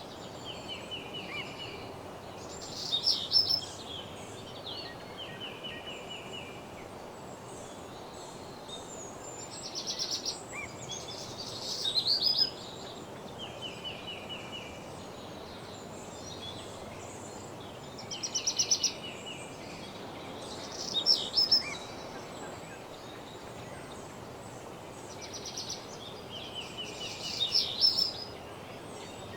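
Woodland songbirds singing: short phrases of rapid repeated notes, given every few seconds, with the loudest bursts about 3, 10–12, 19–21 and 27–28 seconds in. Beneath them is a steady low background hiss.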